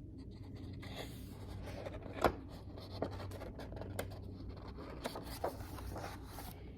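Paper pages of a hardcover picture book being handled and turned: faint rustling and rubbing with scattered small clicks, a sharper tap about two seconds in.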